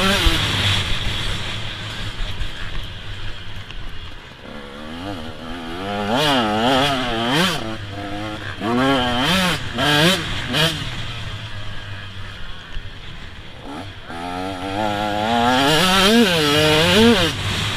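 A 125 cc two-stroke motocross bike's engine being ridden hard. The revs rise and fall over and over, easing off for a few seconds between bursts of revving.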